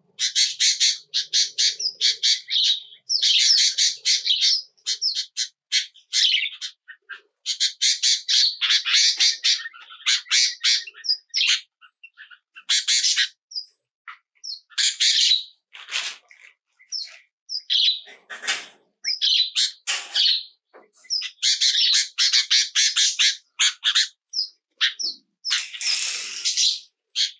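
Small birds chirping in rapid runs of high-pitched notes, burst after burst with short pauses between.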